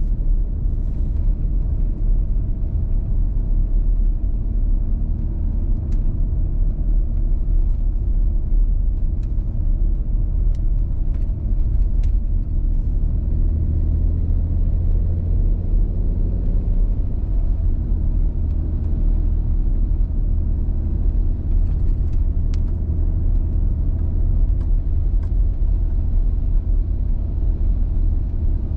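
Car driving at low speed, with a steady low rumble of engine and tyre noise and a few scattered light ticks. The car is towing a small camper trailer.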